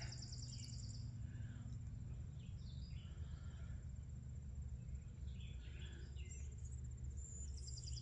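Outdoor nature sounds: an insect's high, rapidly pulsed trill stops about a second in and starts again near the end. Scattered short bird chirps come in between, over a steady low hum.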